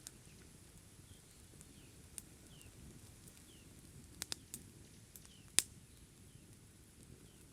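Quiet rainforest ambience: a faint steady high insect tone and soft repeated chirps, with a few scattered sharp pops, the loudest about five and a half seconds in.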